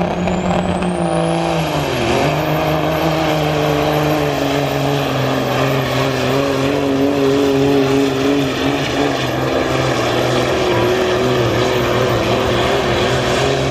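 Diesel semi truck engine running hard under load while pulling the weight sled. A high whine rises over the first two seconds. The engine note dips briefly about two seconds in, then holds steady at high revs.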